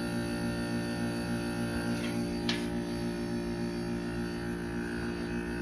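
Trane XR13 heat pump outdoor unit humming steadily in defrost mode, its compressor running, with one tone pulsing evenly in the hum.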